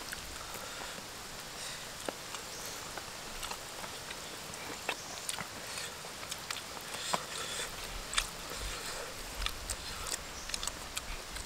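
Eating sounds: chewing, with scattered small wet mouth clicks and smacks as chicken and rice are eaten by hand, over a faint steady hiss.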